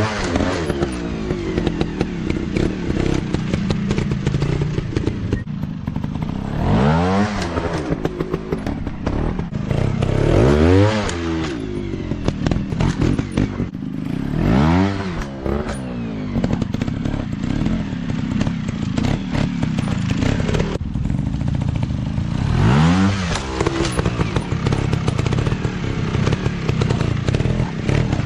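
Dirt bike engine revving, its pitch climbing and dropping back sharply about five times, with steadier lower running and some clattering between the revs.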